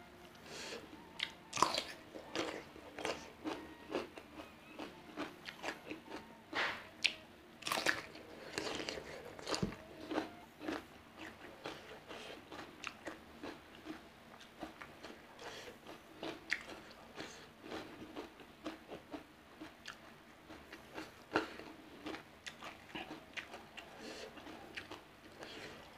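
Crunchy bites into a raw cucumber, loudest about two seconds in and again around seven to eight seconds, then steady close-up chewing with many small crunches.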